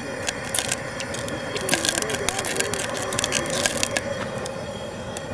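Propane burner running steadily under a pot of smoking-hot canola oil near its flash point, with irregular crackling pops from the oil.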